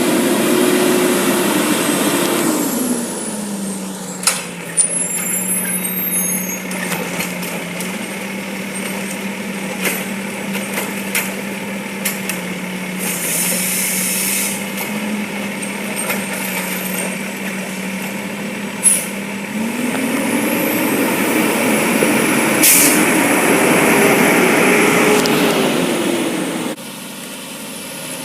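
Garbage truck's diesel engine slowing from a rev to a steady idle, then revving up again about two-thirds of the way through, with a few short air-brake hisses; the engine sound drops off abruptly near the end.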